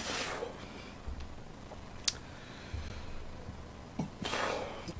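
Mouth sounds of a man chewing food close to the microphone: two short breathy puffs and a sharp click.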